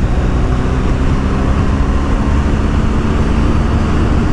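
BMW R1250GS Adventure's boxer-twin engine running at steady cruising speed, its pitch holding level, under a low rush of wind on the microphone.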